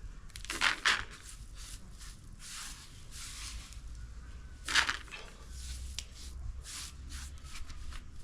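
Dry maize grains rustling and rattling as they are shaken and mixed with insecticide dust against weevils, in irregular swishes with two louder bursts, one about a second in and one near five seconds.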